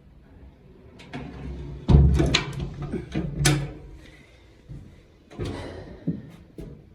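Deck storage hatch on an aluminium fishing boat being opened and handled, with a cluster of knocks and clatter and then a few more knocks near the end.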